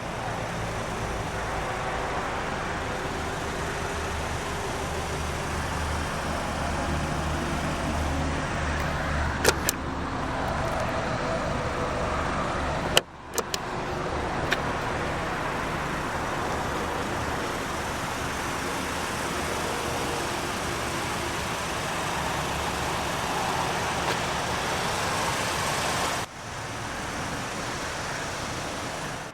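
Steady vehicle noise with a low hum, broken by a few sharp clicks and by two sudden drops in level where the recording cuts.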